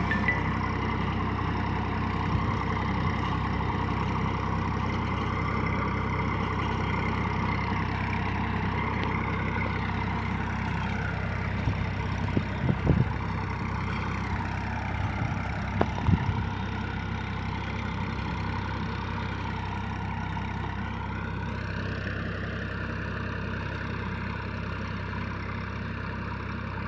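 Mahindra tractor's diesel engine running steadily. A cluster of sharp knocks and clatters comes about halfway through, and another a few seconds later.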